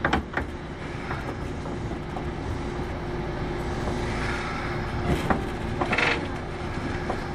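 Kintetsu 8810 series electric train running, heard from inside the car: a steady rumble with a low even hum. A few sharp clicks from the wheels crossing rail joints come near the start and again about five and six seconds in.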